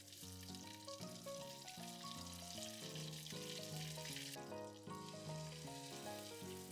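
Breaded meatballs shallow-frying in hot oil, a steady sizzle that grows weaker after about four seconds. Background music plays over it.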